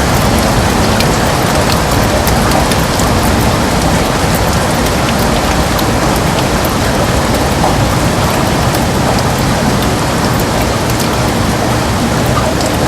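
Heavy rain falling steadily on window glass: a loud, even hiss with scattered sharp drop ticks.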